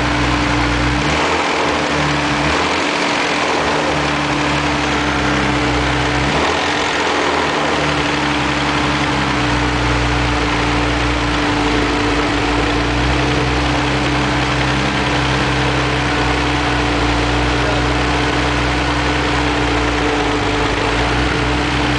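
Nissan 300ZX's twin-turbo V6 engine idling steadily after a start, its low note briefly dropping out twice in the first eight seconds.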